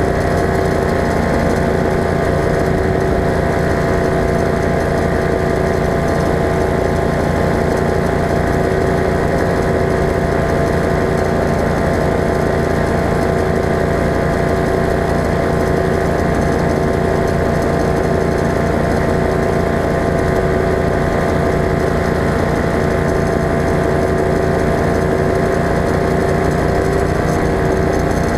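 Ultralight aircraft engine running steadily at constant power, its pitch and level unchanging.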